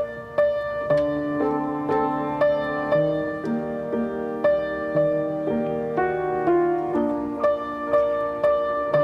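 Piano music: a steady pattern of notes, about two a second, with a lower note held under it.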